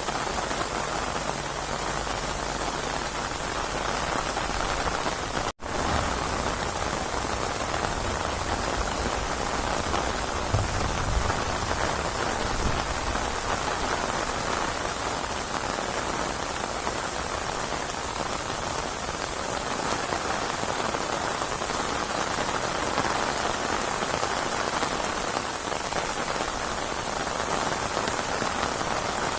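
Steady, dense rainfall pattering on surfaces, a continuous rush of drops. It cuts out for an instant about five and a half seconds in, then resumes.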